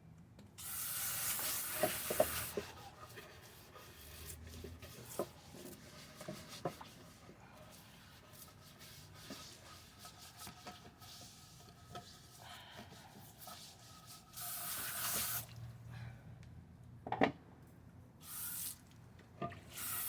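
A pan being washed at a sink: the tap runs in short spurts, and between them come scrubbing and scraping with a few clinks and knocks of the pan.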